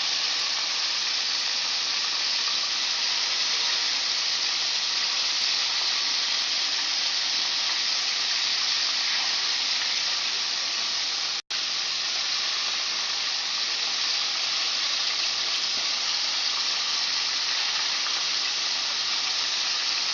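Chicken frying in hot oil, a steady sizzle that drops out for an instant about eleven seconds in.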